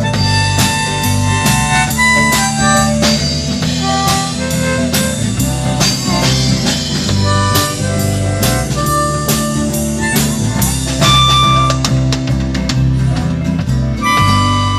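Live band playing an instrumental passage of a country-rock song, with a held-note melody line over a bass line and a steady drum beat.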